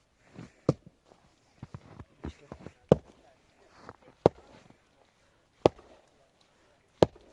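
A series of sharp, heavy blows, about one every second and a half, with softer knocks in between the first few.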